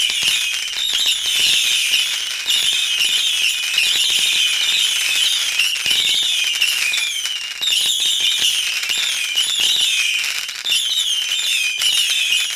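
Firework fountain or crackling firework giving a dense, continuous crackle laced with high warbling whistles. It starts and stops abruptly.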